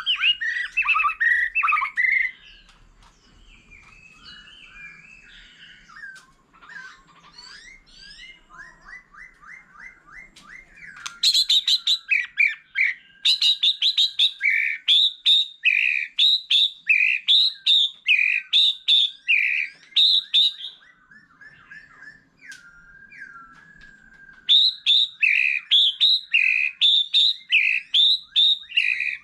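White-rumped shama singing: varied whistled phrases at first, then a loud phrase repeated about once a second. The song breaks off briefly and picks up again near the end.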